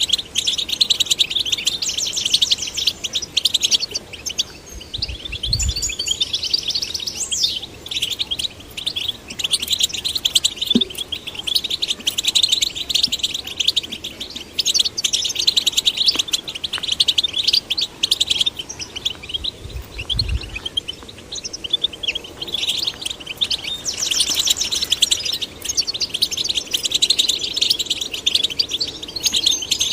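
European goldfinch song: a continuous, rapid, liquid twittering with fast trills and short chirps, on and on without pause.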